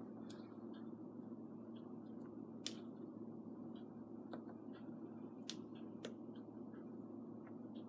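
Quiet room tone: a low steady hum with a few faint, sharp clicks scattered through it.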